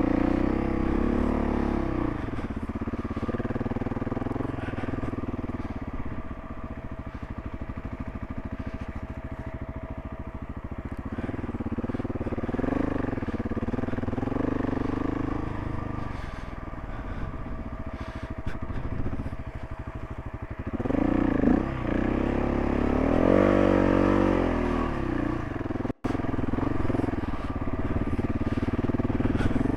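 Single-cylinder adventure motorcycle engine running at low speed over rough ground, its revs rising and falling with the throttle. About two-thirds of the way through it revs harder several times.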